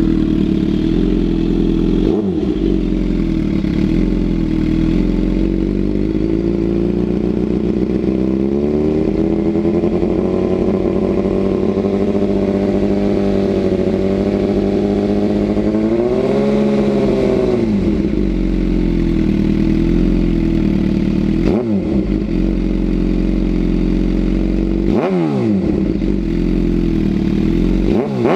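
2011 Suzuki GSX-R750 inline-four running through an unbaffled M4 GP slip-on exhaust with the cat deleted and an MJS mid pipe. It idles with quick throttle blips near the start and again twice near the end, and in the middle it is held at raised revs for about ten seconds, climbing a little higher before dropping back to idle.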